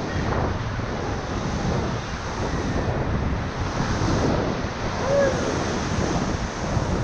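River whitewater rushing and churning around a raft, with wind buffeting the microphone.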